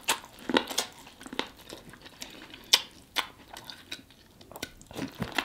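A person eating sauce-covered seafood: wet chewing and lip clicks, heard as a string of short, irregular crackles.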